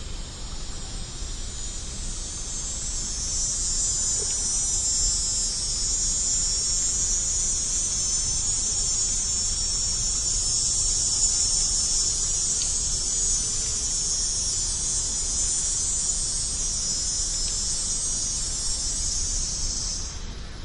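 Dense, steady high-pitched chorus of insects, swelling a few seconds in and cutting off abruptly near the end.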